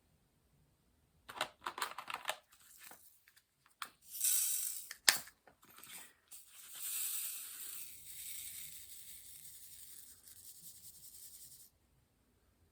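Thin sheet material being handled and pulled apart: crinkles and clicks, a sharp snap about five seconds in, then a long steady tearing hiss of about five seconds that stops abruptly.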